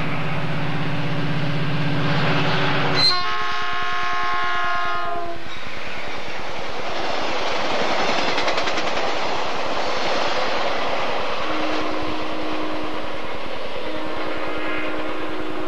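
Metrolink commuter train sounding its horn, first a lower chord and then, about three seconds in, a higher, brighter blast. The bilevel coaches then rush past with wheel noise and a clickety-clack over rail joints, and two fainter horn blasts sound near the end.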